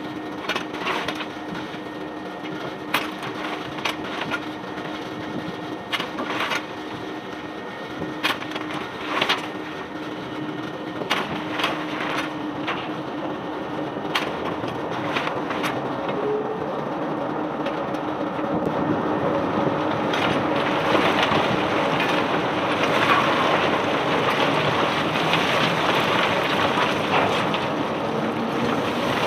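Cobblestones being unloaded from a barge: scattered clacks and knocks of stone on stone, then a denser, steadier clatter of pouring stones that builds up about two-thirds of the way in, over a steady machine hum.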